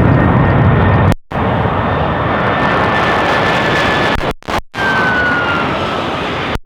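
Jet airliner's engines heard loud and close, a dense noise with a high whine that falls slowly in pitch as it passes. The sound cuts out completely for a moment a few times.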